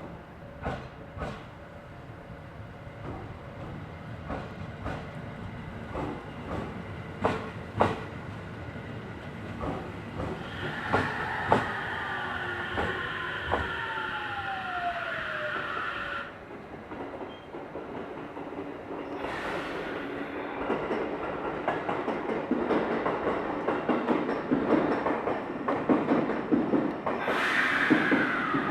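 Train on the Tokaido Main Line with wheels clicking over rail joints, then a steady high squeal with a whine falling in pitch from about ten to sixteen seconds in. A rumble builds towards the end, topped by another brief squeal.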